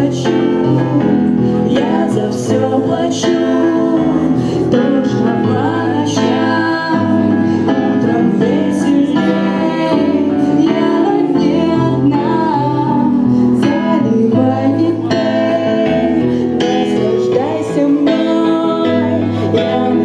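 A live rock band playing a song, with singing over guitar and regular percussion hits.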